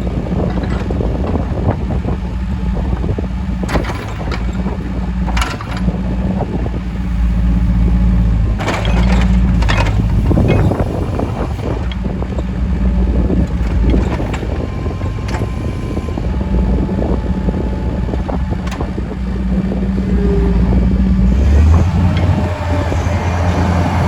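A 2005 Case 410 skid steer loader's diesel engine running steadily, with several short metallic clanks and knocks from the machine at intervals. The engine note changes near the end.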